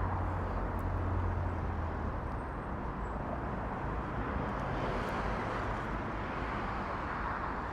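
Steady road traffic noise from a busy main road, an even rush with no words over it. A low hum is heard for the first two seconds or so and then fades.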